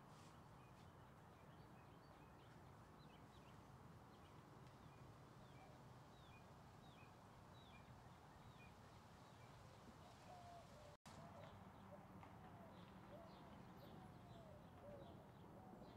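Near-silent outdoor ambience: faint bird chirps and calls over a steady low background noise, with no thunder or rain heard. The sound cuts out completely for an instant about eleven seconds in.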